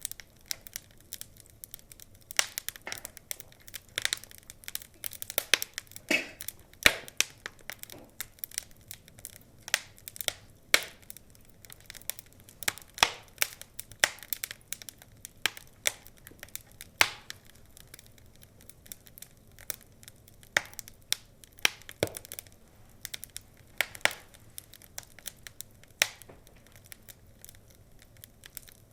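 Wood fire crackling, with irregular sharp pops and snaps over a soft hiss, a few of them much louder than the rest.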